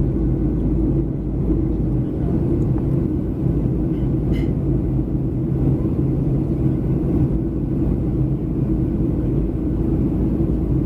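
Steady low cabin rumble of a Boeing 737-300 in flight: the drone of its CFM56 engines and the airflow, heard from inside the passenger cabin. A brief tick comes about four seconds in.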